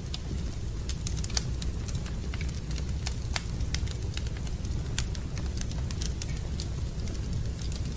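Wood fire burning in a fireplace, crackling, with irregular sharp pops over a steady low rumble.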